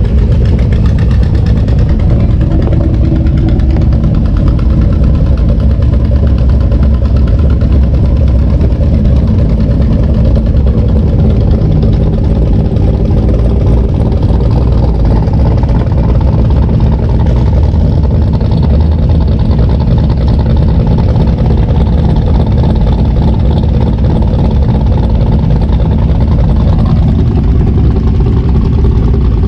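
A vehicle engine idling steadily, with a strong low rumble and a slight change in its tone near the end.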